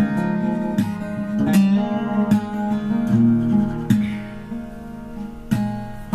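Strummed acoustic guitar playing an instrumental passage of a song, with chords struck about every second.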